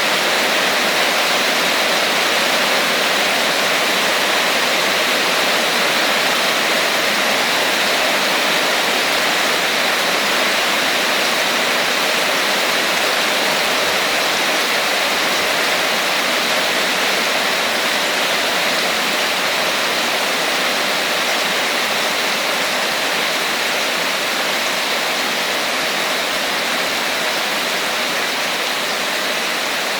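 Steady rain falling, an even, unbroken hiss with no separate drops, thunder or other sounds standing out.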